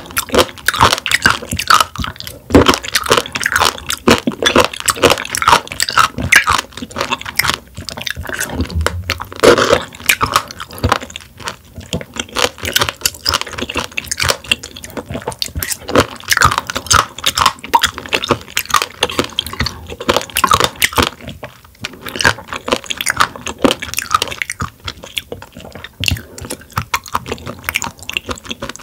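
Close-miked chewing of raw warty sea squirts: a continuous run of sharp, wet crunching clicks as the firm, rubbery bodies are bitten and chewed.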